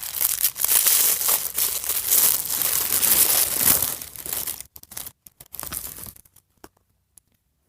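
Doll accessory packaging being opened by hand: about four and a half seconds of crinkling and tearing, then a few short handling sounds, then near silence.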